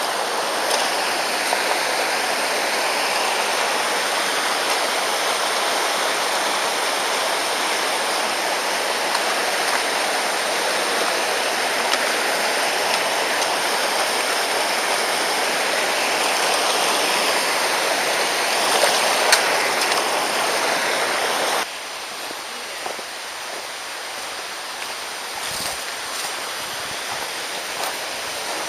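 Mountain stream rushing steadily over rocks. About three-quarters of the way through the rushing suddenly becomes quieter, with a few faint clicks after it.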